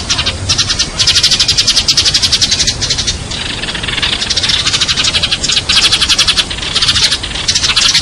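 Sparrows chirping in fast, even runs of about a dozen chirps a second. Each run lasts one to two seconds, with short breaks between runs.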